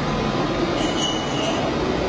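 Steady factory machinery noise, with a brief high-pitched squeal from about a second in.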